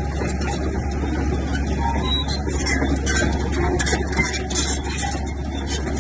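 Heavy diesel earthmoving machinery running steadily with a constant low drone, overlaid by irregular clicking and clatter.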